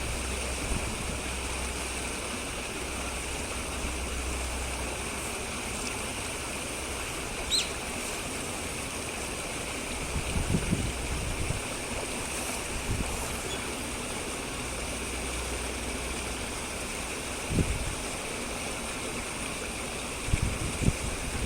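Steady rushing outdoor background noise with a low rumble of wind on the microphone. A single short, high bird call comes about seven and a half seconds in, and a few dull bumps follow later.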